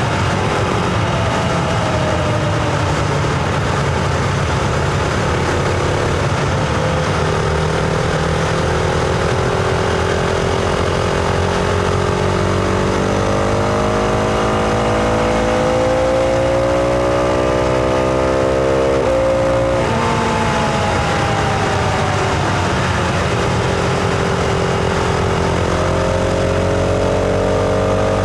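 Husqvarna Vitpilen 701's single-cylinder engine under way. It pulls with pitch climbing steadily for about twelve seconds, then drops sharply at a gear change. The pitch falls off for a few seconds and climbs again near the end.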